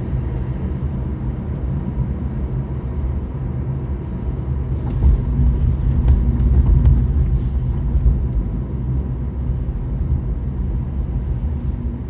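Steady low rumble of a car's engine and tyres heard from inside the cabin while driving, swelling louder for a couple of seconds about five seconds in.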